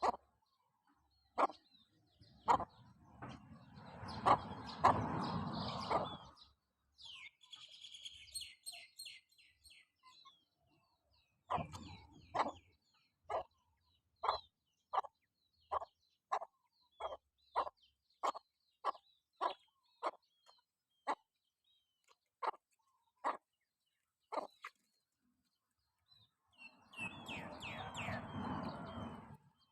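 Chickens calling while they forage: a long run of short, evenly spaced clucks, about one and a half a second, with high chirps about eight seconds in. Two stretches of rustling noise, one early and one near the end.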